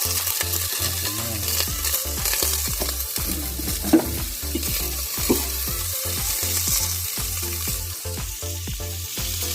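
Green beans with bacon sizzling and frying in a pan, a steady hiss throughout. Two sharp knocks come about four and five seconds in.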